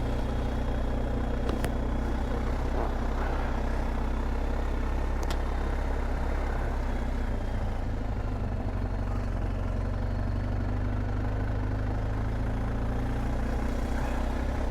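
BMW R1250 GSA's boxer-twin engine idling steadily at an even, unchanging pitch. Two faint clicks come through early in the sound.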